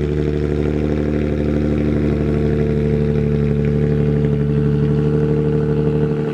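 Infiniti G35's 3.5-litre V6 idling steadily in the first minute after a cold start.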